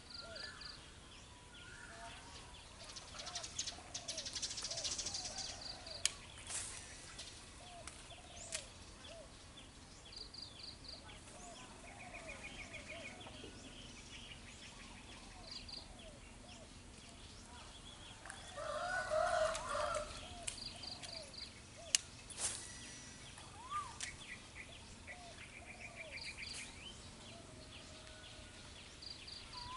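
Birds calling: many short repeated calls, high repeated trills, and a louder burst of calling about two-thirds of the way through. A few sharp clicks are heard among them.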